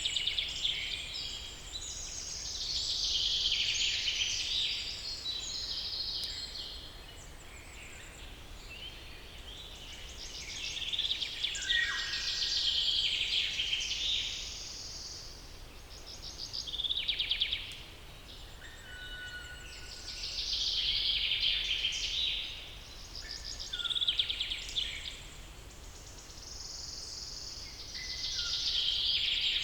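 Several birds singing and calling at once in a forest chorus, with trills, chirps and short whistled notes that swell and fade every few seconds.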